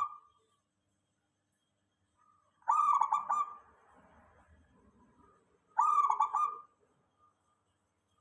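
Zebra dove (perkutut) cooing: two short phrases of quick, rattling coo notes about three seconds apart, with the tail of an earlier phrase at the very start.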